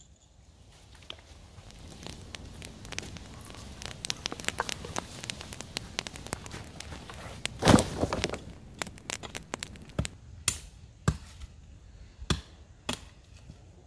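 Dense crackling and clicking that builds up over the first few seconds, a louder rustling burst about eight seconds in, then a few separate sharp snaps.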